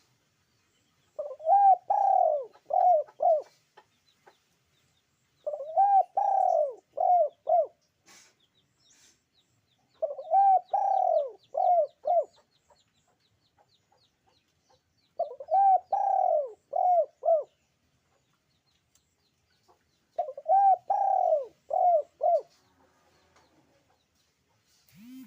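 A puter dove (ringneck or Barbary dove) cooing in the drawn-out pelung style: five repeated phrases, each a quick run of rolling coo notes, about every four to five seconds. A faint rapid ticking runs under the middle calls.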